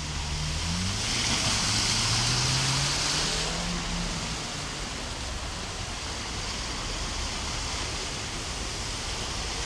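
Rushing floodwater and heavy rain running down a flooded street, a steady rushing hiss. About a second in the hiss swells louder for a couple of seconds, over a low drone, then settles back.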